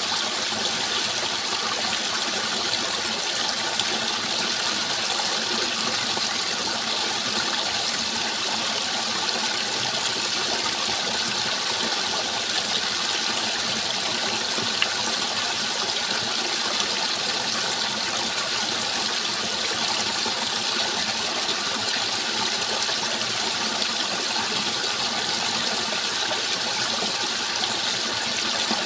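Running water rushing steadily and evenly, without pause or change.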